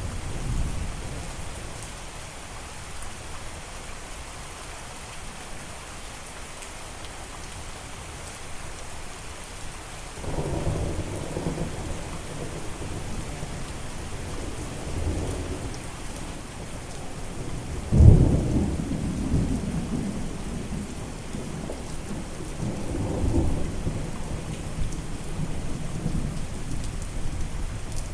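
Steady rain with rolling thunder: a low rumble sets in about ten seconds in, a sharp thunderclap about two-thirds of the way through is the loudest moment, and further rumbles follow.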